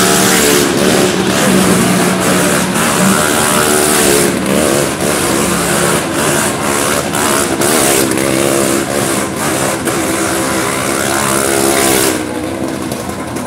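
Car engine revving hard as the car circles on the wooden plank wall of a well of death, its pitch rising and falling over and over. About twelve seconds in the sound drops off as the car comes down to the floor.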